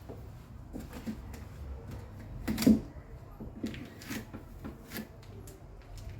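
Light clicks and knocks of things being handled and set down, with one louder knock about two and a half seconds in.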